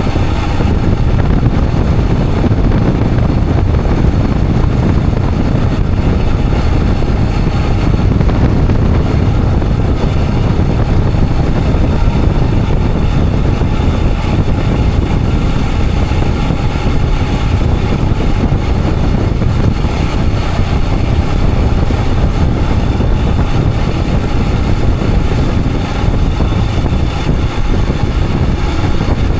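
Royal Enfield Himalayan 411's single-cylinder engine running at a steady road pace during riding, loud and even with no change in revs.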